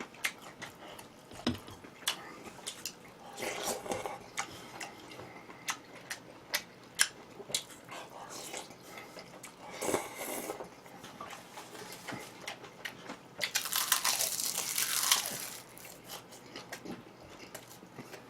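A person eating close to the microphone: chewing and biting with frequent small crisp clicks and smacks, and a louder noisy stretch of about two seconds near the end.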